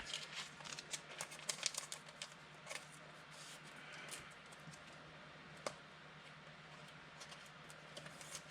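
Trading cards and their pack wrapper being handled: soft rustling and light clicking, busiest in the first three seconds, then a few scattered ticks over a faint steady low hum.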